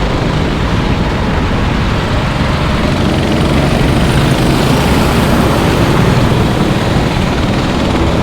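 Racing engines running around a circuit, a dense steady engine noise with no single pass standing out.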